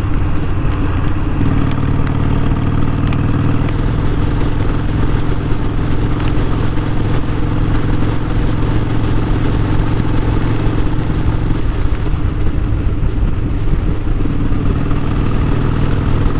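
Harley-Davidson Sportster 1200's air-cooled V-twin running steadily under way, heard from the rider's seat. The engine note shifts slightly about a second in and again near the end.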